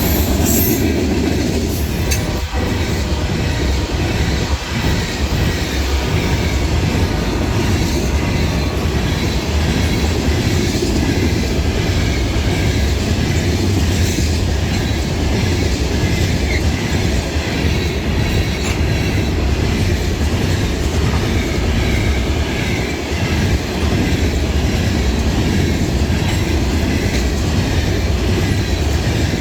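Southbound potash freight train's cars rolling past at speed: a steady rumble of steel wheels on rail, with a few sharp clacks in the first few seconds.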